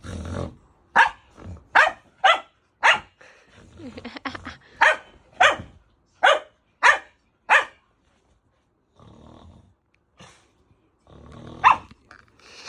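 Taiwanese native dog (mixed-breed local dog) barking about ten sharp barks in two quick runs, with a last bark after a pause of a few seconds near the end, and lower growling between the barks. This is the dog's protest at the sound of snoring, which it hates.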